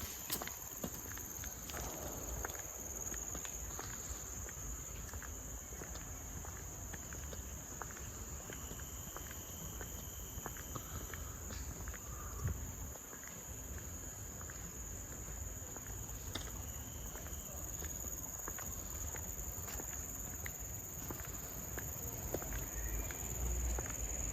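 Insects droning steadily in a high, unbroken pitch, with the scattered soft steps of someone walking a path.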